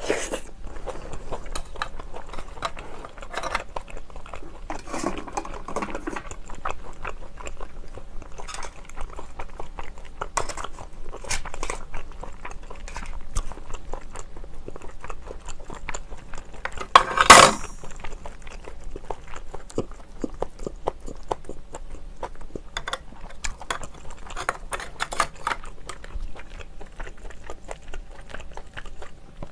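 Close-miked chewing of steamed scallop meat, with wet mouth noises and small clicks. There are light clinks of shells and chopsticks, and one loud sharp clack about two-thirds of the way through.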